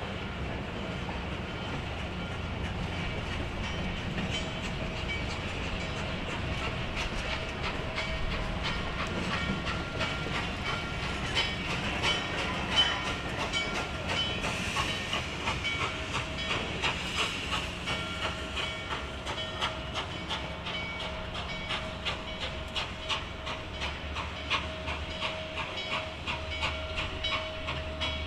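Steam excursion train rolling past with a steady hiss, its wheels clicking rhythmically over the rail joints, the clicking growing plainer in the second half.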